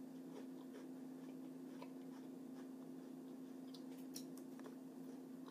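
A steady low hum with a few faint, soft clicks scattered through it.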